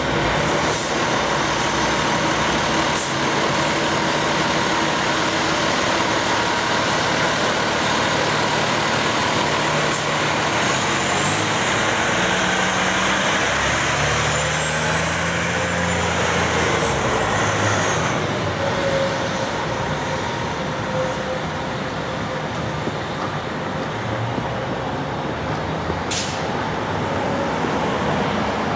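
Spartan Gladiator fire engine's diesel running steadily at low speed as it manoeuvres. A few short, sharp sounds are scattered through, one near the end, and a brief gliding whine comes about halfway through.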